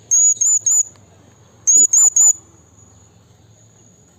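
Blue-crowned hanging parrot (serindit) calling: two quick bursts of three high, thin, sharp notes, the second burst about a second after the first.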